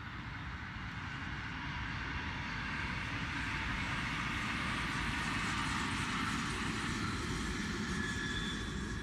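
Electric SBB passenger train passing at speed: a steady rolling rush that swells to its loudest about midway and starts to fade near the end.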